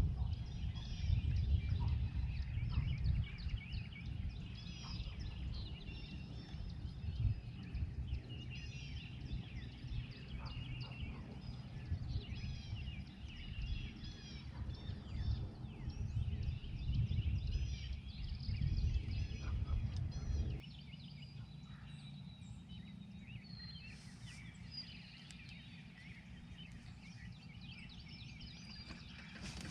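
Birds singing in a busy chorus of short chirps and calls, over a low rumble that drops away suddenly about two-thirds of the way through.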